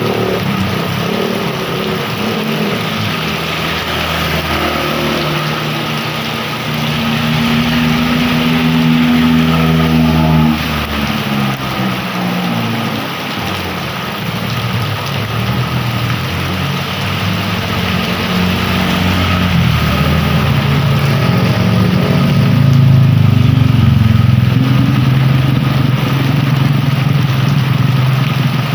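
Heavy rain falling steadily, with motor vehicle engines passing close by: one rising and falling in pitch about eight to ten seconds in, and a louder one from about twenty seconds in.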